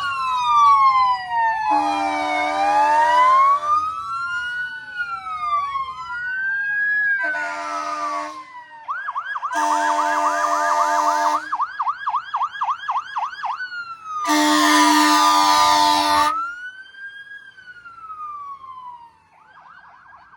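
Emergency vehicle sirens: two overlapping wails rising and falling, switching to a fast yelp in the middle, broken by four long horn blasts. The sirens fade near the end.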